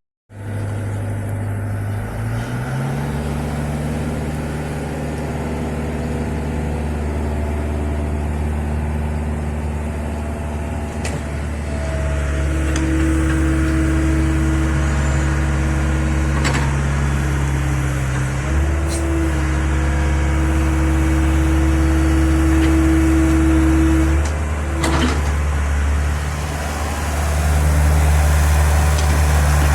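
Mini excavator's diesel engine running steadily, getting louder about twelve seconds in. A steady higher whine runs alongside it for about twelve seconds, with a few faint clicks.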